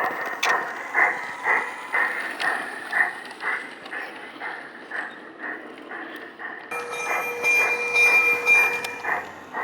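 G-scale garden railway model train running, with an even rhythmic beat about twice a second. From about seven seconds in, a steady high tone sounds over it for about two and a half seconds.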